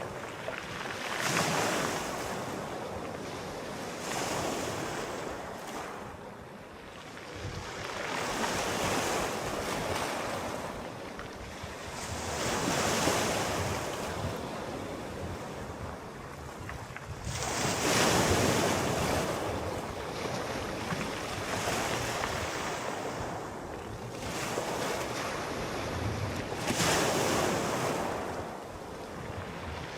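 Sea waves breaking and washing on a shore, surging and receding every few seconds, with the strongest breaks about two-thirds of the way in and near the end. Wind runs underneath.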